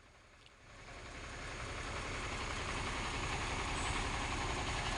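Diesel truck engine idling with a steady, even rumble, fading in from near silence over the first couple of seconds.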